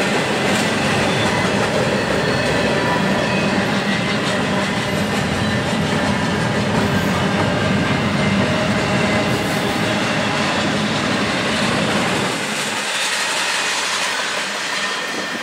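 Double-stack intermodal freight cars rolling past at close range, their steel wheels running steadily on the rails. The low rumble thins out about twelve seconds in as the last cars go by.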